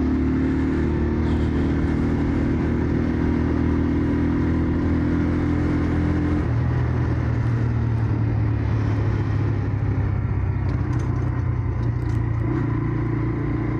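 Jawa 125 Dakar enduro motorcycle engine running while the bike is ridden along at a steady pace; about halfway through its note drops to a lower, steadier pitch.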